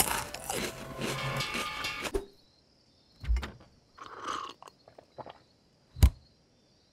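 Crunching of a dry instant ramen noodle block being bitten and chewed as a cartoon sound effect, in a few separate short crunches, with one sharp loud click about six seconds in. Before that, a dense stretch of sound cuts off abruptly about two seconds in.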